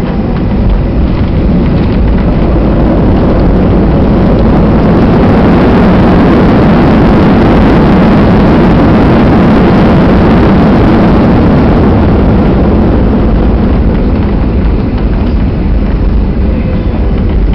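Boeing 737-800 heard from inside the cabin during the landing: a loud, deep rushing roar of the engines and airflow. It builds over the first few seconds, peaks midway and eases off again.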